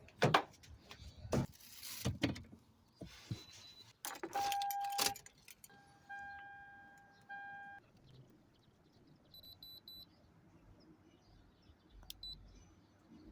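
Clicks, knocks and a jangle of keys, then an electronic tone sounding three times, one longer and two shorter, followed by a few short high beeps and a single click.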